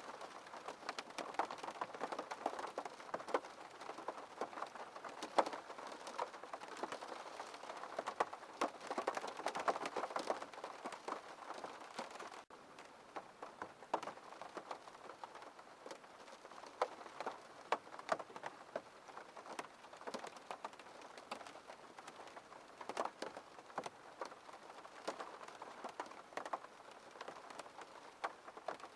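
Rain falling on a window pane: many small, irregular drop taps over a steady hiss of rain. The rain gets a little softer about twelve seconds in.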